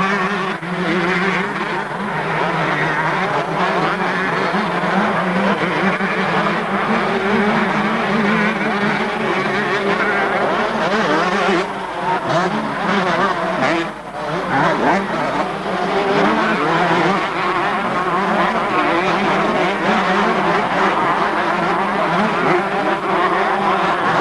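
Several motocross motorcycles racing, their engines revving up and down continuously and overlapping.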